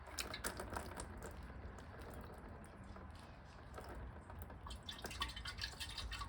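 Liquid dripping and trickling in irregular small drops: old gasoline draining out of a Craftsman lawnmower's fuel tank.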